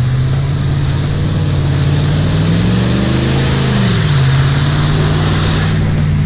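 A pickup truck's engine running steadily, revving up and back down about three seconds in, as it works through mud. Over it is a hiss that builds and cuts off near the end.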